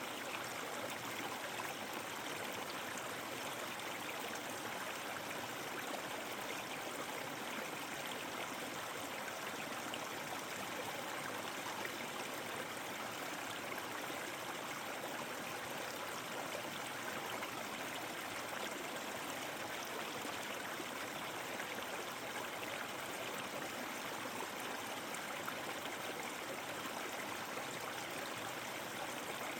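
Flowing stream water, a steady even rush of running water that does not change.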